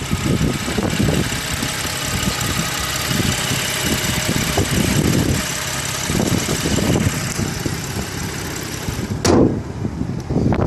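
BMW M235i's turbocharged 3.0-litre straight-six idling steadily under the open hood. A single sharp thump comes about nine seconds in.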